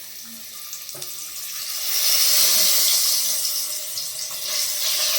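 Cut potato pieces sizzling in hot refined oil in a kadai as they go in, a steady hiss that grows louder about two seconds in.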